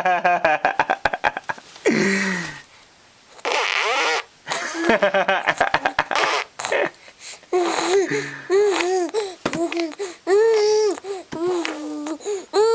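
Baby vocalizing: runs of rapid sputtering, buzzing pulses of voice, then from about halfway a string of short cries that rise and fall in pitch.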